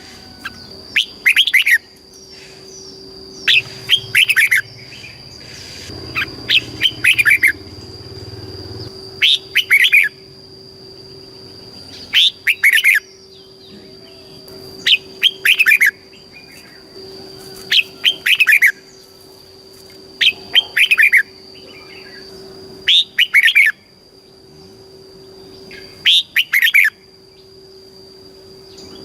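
Red-whiskered bulbul singing: short phrases of quick falling notes, repeated about every two to three seconds, over a faint steady high tone.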